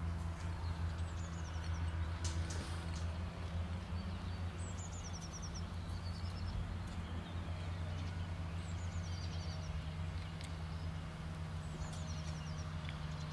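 A songbird singing a short phrase of quick high notes that step downward, four times about four seconds apart, over a steady low hum.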